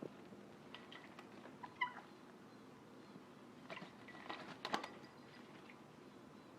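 Caique making short chirping calls: a couple near two seconds in, then a quick cluster of sharper calls about four to five seconds in, the loudest near five seconds.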